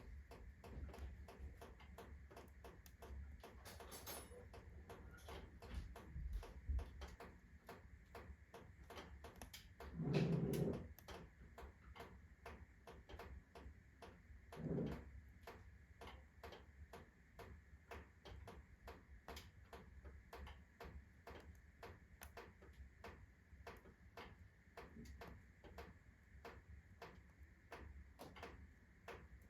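Rotten firewood burning on hot embers in a wood stove, crackling with frequent small irregular clicks. Two short, louder low sounds come about ten and fifteen seconds in.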